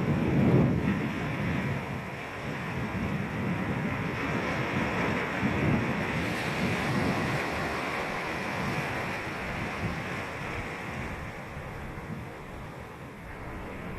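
Ocean surf breaking and washing on a sandy beach, a steady wash of waves that swells near the start and again about six seconds in, with some wind on the microphone.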